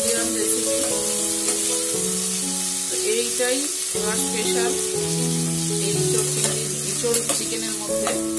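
Small turmeric-coated prawns sizzling in hot oil in a stainless steel pan as a spatula stirs them. Soft background music with held notes plays over the sizzle.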